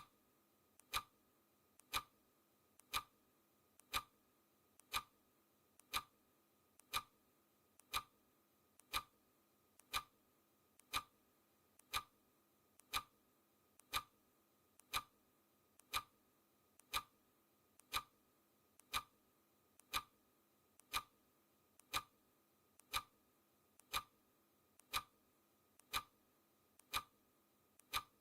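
Clock ticking sound effect, a sharp tick exactly once a second with a fainter tick between each pair.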